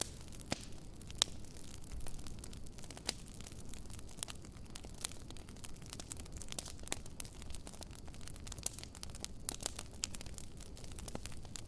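Wood fire burning: irregular sharp crackles and pops from the burning wood over a low, steady rush of flame.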